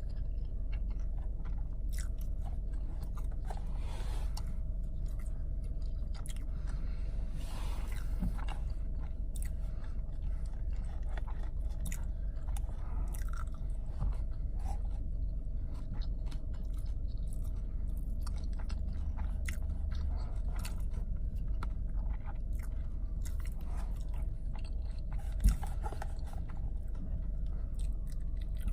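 Close-up chewing and biting with mouth clicks, someone eating fast food, over a steady low hum. A single sharp knock stands out near the end.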